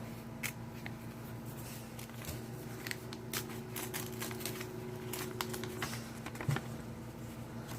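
Sheets of stickers and paper being handled and shuffled: a run of light clicks and rustles, over the steady hum of a room fan and an oxygen concentrator.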